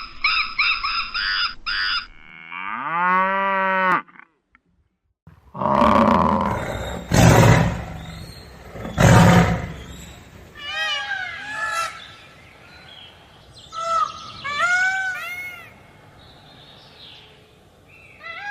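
A run of different animal calls, one after another: a rising, pitched lowing call, then two loud, deep roars, then a series of short, arching, chirping calls repeated every second or so.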